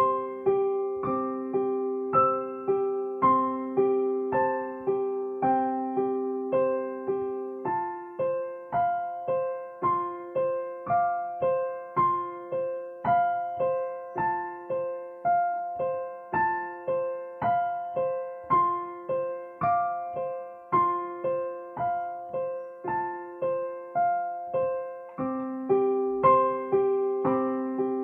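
Solo piano playing a gentle, evenly paced melody of struck notes, about two a second, over sustained lower notes; the harmony shifts about eight seconds in and returns near the end.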